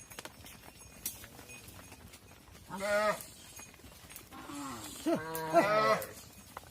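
Calves bawling, separated from their mothers: a short call about three seconds in, then a longer, louder call near the end.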